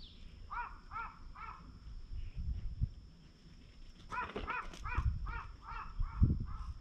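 A bird cawing in two runs: three short caws about half a second in, then a quicker run of about seven caws from about four seconds in. Low thumps are heard underneath.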